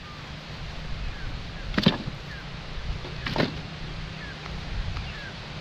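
Two sharp knocks about a second and a half apart over a steady low rumble, with faint short chirps in the background.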